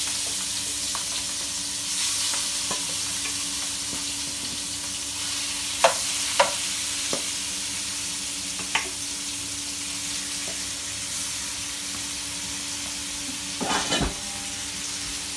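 Prawns sizzling steadily in hot oil in a frying pan, with a few sharp clinks of a utensil against the pan about six to nine seconds in and a louder clatter near the end.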